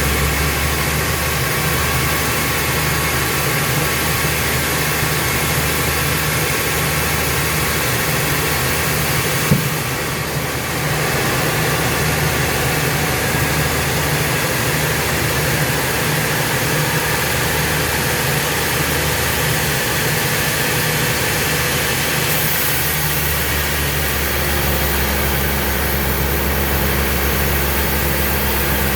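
Sawmill machinery running with a steady, loud engine-like drone. A single sharp knock comes about nine and a half seconds in, and the low hum grows stronger and changes pitch near the end.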